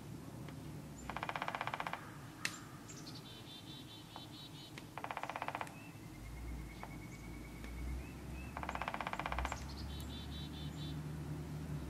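Birds calling in the woods: a harsh, raspy call repeated three times, about every three and a half seconds, with thin, high twittering notes from a smaller bird in between. A low rumble runs under the second half.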